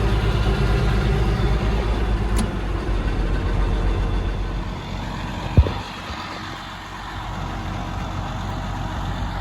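A vehicle engine running steadily with a low rumble. A little past halfway the sound drops quieter, marked by a single sharp knock.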